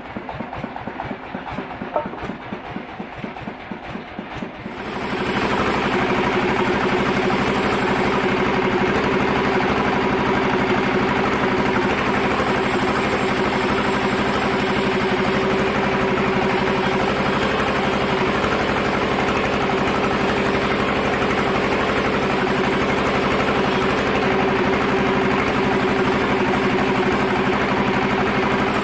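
Sawmill machine's engine idling with even pulses, then about five seconds in it picks up into a steady, louder running with a dense hiss that holds on.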